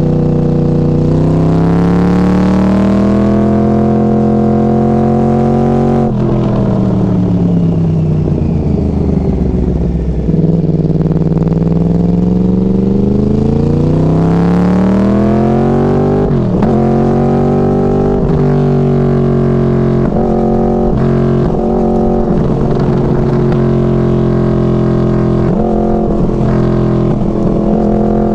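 Yamaha R1 crossplane inline-four running through Hotbodies MGP Growler carbon slip-on exhausts while being ridden. The revs climb and fall in long sweeps, with sudden drops in pitch at quick gear changes and a run of short rev dips near the end.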